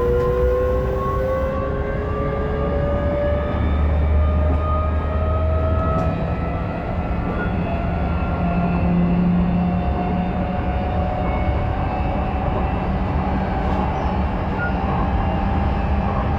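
Odakyu 5000-series electric train running, heard from inside motor car DeHa 5414. The traction motors' whine climbs slowly in pitch as the train gathers speed, over a steady rumble of the wheels on the rails.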